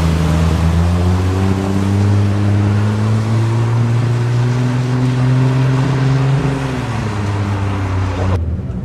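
Toyota Supra MK4 engine pulling under acceleration, its pitch rising slowly for about six seconds over a strong rushing noise, then dropping as the throttle comes off. The sound cuts off suddenly near the end.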